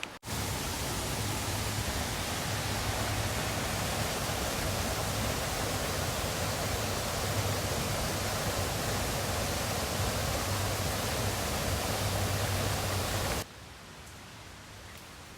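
Minoo Falls, a waterfall, pouring in a steady, loud rush of falling water. It starts suddenly just after the beginning and cuts off abruptly about two seconds before the end.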